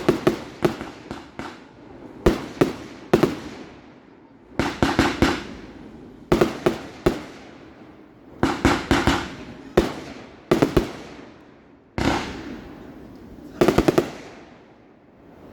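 Fireworks display: shells bursting in rapid clusters of sharp bangs, each group followed by a long fading echo, a new volley every second or two.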